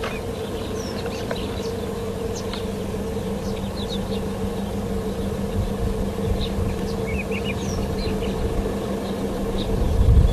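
A vehicle engine idling steadily with a low rumble, which swells near the end. Short bird chirps sound over it.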